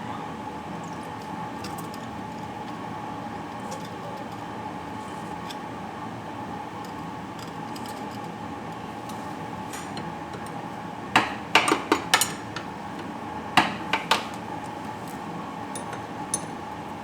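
Sharp metallic clinks and knocks in two quick clusters past the middle, over a steady background hum with a constant tone.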